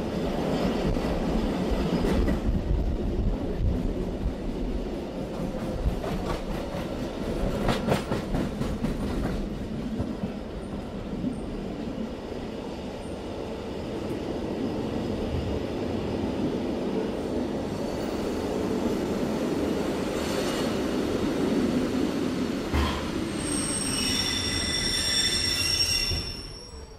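Running noise inside a BLS passenger train rolling through the Brig station tracks: a steady rumble of wheels on rail with scattered wheel clicks over the first several seconds. Near the end the wheels set up a squeal of several high tones for about three seconds, then the noise cuts off suddenly.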